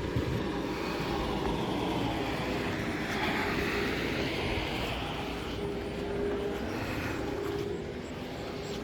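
Engine noise of a vehicle passing by, swelling about three seconds in and then fading; a faint steady hum joins after about five and a half seconds.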